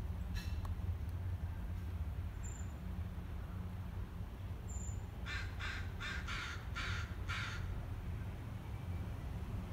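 A bird's harsh calls, six in quick succession over about two seconds about halfway through, over a steady low rumble.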